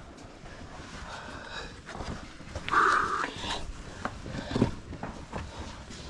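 A hiker's short, loud vocal effort sound about three seconds in, among scattered scuffs and knocks of shoes and hands on rock during a scramble.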